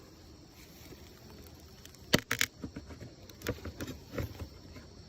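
A few sharp clicks and light knocks, the loudest cluster about two seconds in, over the faint steady hum of a honeybee colony.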